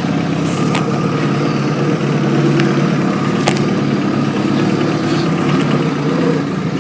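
Motorcycle engine running steadily at low revs while the bike is manoeuvred at walking pace, with three light clicks.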